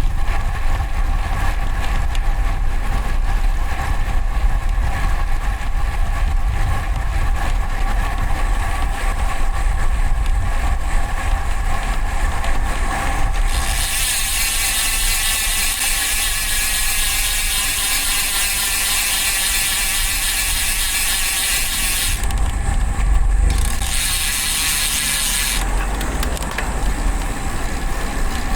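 Road bike's ratchet freehub buzzing while it coasts: a fast, even high-pitched buzz starts about halfway through, breaks off for about a second, resumes, and stops a few seconds before the end. Before the buzz, low wind and road rumble from riding.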